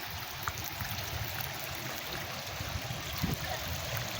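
Stream water running steadily, a continuous rushing trickle.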